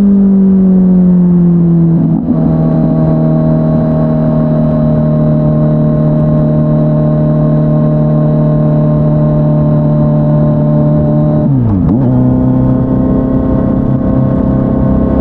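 Kawasaki Z900's inline-four engine through an SC-Project S1 aftermarket exhaust, heard from the rider's seat. Its note falls gently, settles into a steady cruise, then briefly drops and comes back at a new pitch near the end, a gear change.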